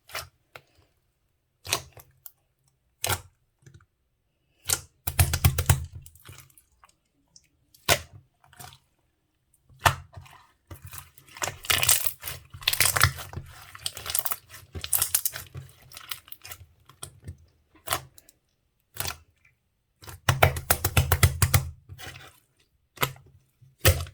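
Slime being squished and stretched by hand, giving irregular bursts of sticky crackling and popping clicks with short pauses between them.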